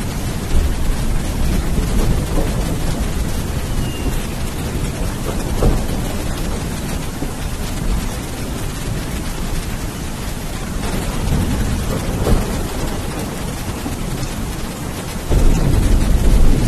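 Steady heavy rain with rolling thunder underneath. A louder, deeper thunder rumble swells up near the end.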